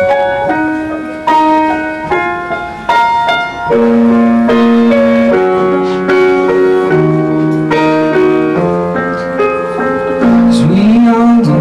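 Live instrumental music led by keyboard chords, struck about once a second and held, with a sliding note near the end.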